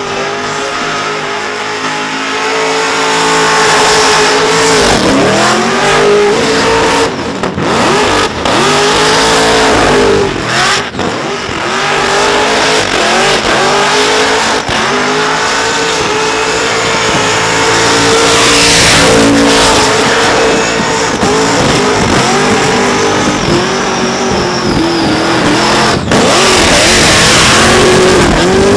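Supercharged LSA V8 held at high revs during a burnout. The revs repeatedly dip and climb back, and tyre screech sits over the engine.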